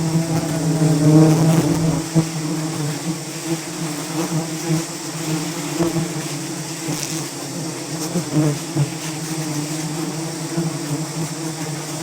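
A swarm of wild bees buzzing in a steady, dense drone.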